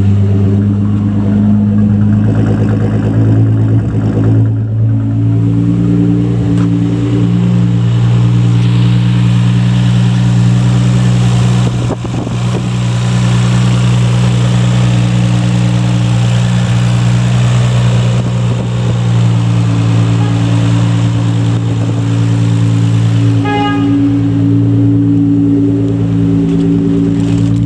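Nissan Fairlady Z (Z32) 300ZX's VG30DETT twin-turbo V6 idling steadily on an engine start test. A short beep sounds once near the end.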